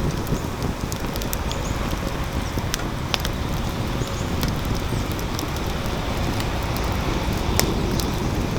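Wood fire burning hard in an ANCAM steel fire pit: a steady low rush of air being drawn through the burning logs, with a few sharp crackles and pops, the loudest near the end. The fire is burning close to complete combustion.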